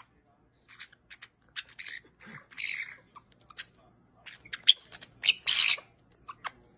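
A bird making a run of short, harsh squawks and chirps with a few clicks, the two longest squawks about two and a half and five and a half seconds in.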